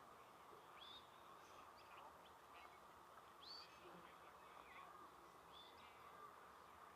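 Faint scattered bird calls, short chirps about once a second, over a steady background hiss.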